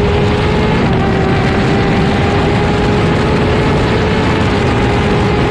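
On-board sound of a Suzuki GSX-R1000-R's inline-four engine running at steady, nearly constant revs, its pitch dropping slightly about a second in and then holding, over a loud rush of wind noise.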